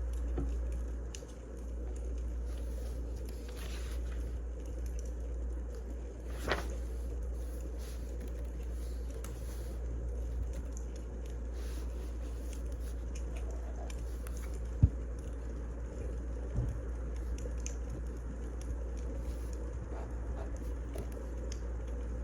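Wood fire crackling: scattered small crackles and two louder pops, about six seconds in and near the middle, over a steady low rumble.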